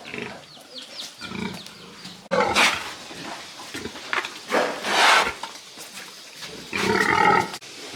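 Pigs squealing, with three loud squeals about two and a half, five and seven seconds in.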